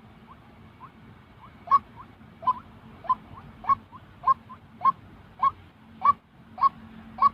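White-breasted waterhen calling: a steady series of short rising calls about every 0.6 s, faint at first and loud from a couple of seconds in, with fainter notes between the loud ones.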